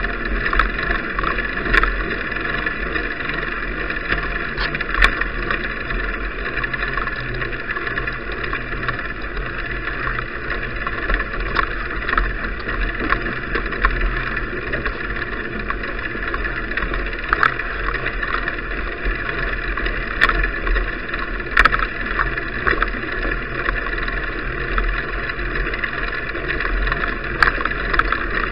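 Steady rushing noise of a bicycle ride picked up by an action camera's microphone, with a low rumble and a few sharp clicks now and then.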